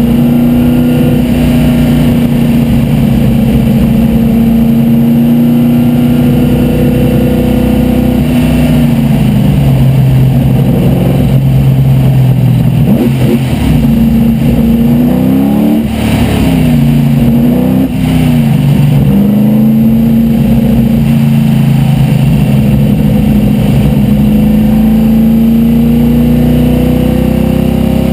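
De Tomaso Pantera race car's V8 engine at racing speed, heard inside the cockpit, under steady high revs. About a third of the way in the revs fall, then climb again with two quick breaks as it shifts up, before holding steady, with wind and road noise beneath.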